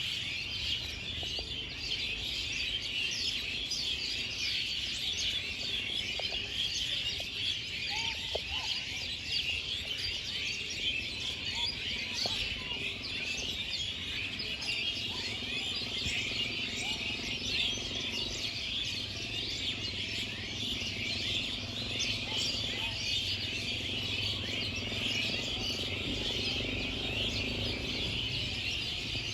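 Many birds chirping at once in a dense, steady chorus of short, high chirps, with no single bird standing out.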